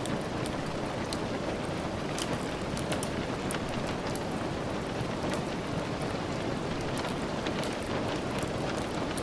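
Steady rain falling, mixed with frequent small, sharp crackles from a wood fire in a fireplace.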